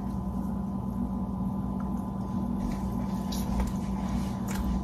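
A person biting into and chewing a waffle, with a few faint wet mouth clicks over a steady low hum.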